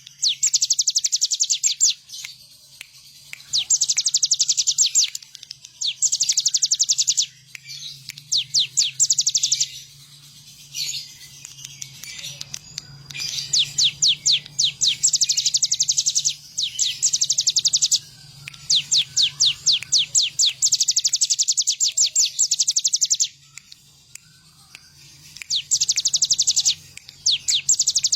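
Ciblek gunung (a prinia) singing hard: phrase after phrase of rapid, high, evenly repeated notes, each phrase lasting one to three seconds with short pauses between. A faint low hum runs underneath.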